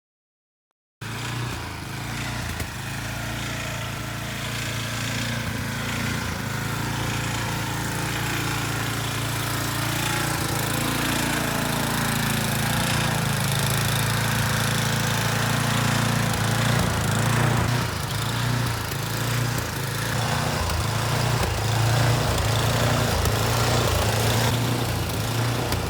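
Snowblower's small gasoline engine running steadily with a low, even drone. It starts suddenly about a second in.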